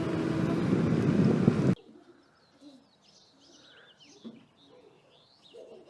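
Steady road and engine noise inside a moving car, cut off abruptly a little under two seconds in; after that, faint high chirps and a few soft short sounds.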